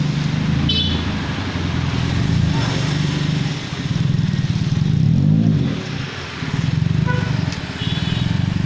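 Honda Brio's four-cylinder petrol engine idling through an aftermarket bolt-on exhaust in place of the stock rear muffler, with a short blip of the throttle about five seconds in.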